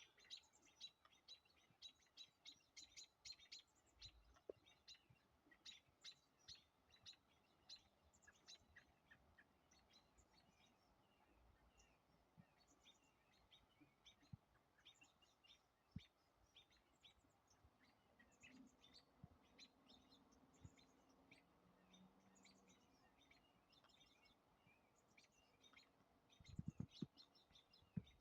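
Small songbirds giving rapid, short, high chirps again and again, mobbing calls aimed at a perched owl. A few dull low thumps come near the end.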